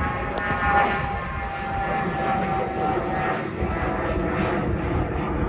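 A Dornier 328JET's two turbofan engines at takeoff power, a steady jet noise with a whine whose pitch drops slowly as the aircraft goes past.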